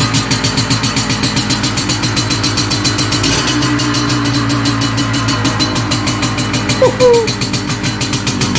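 Military MZ motorcycle's single-cylinder two-stroke engine running at idle just after being started, its beat picking up slightly about three seconds in. It has just come to life after standing for three months. A short squeak sounds near seven seconds.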